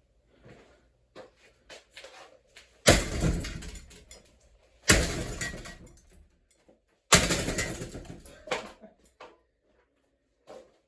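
Three heavy blows on a ceiling fan being smashed apart, each ringing and rattling away over about a second, with smaller knocks and clatters between them.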